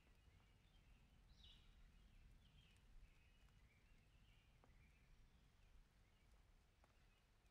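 Near silence: faint bird chirps over a low, steady rumble.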